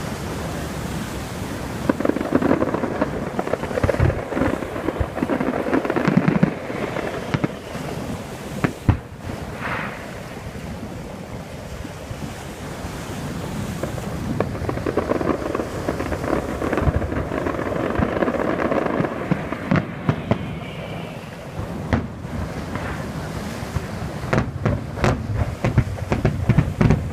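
Aerial fireworks display: repeated bangs of bursting shells and crackle, thickest a few seconds in and again near the end, with a short whistle about ten seconds in.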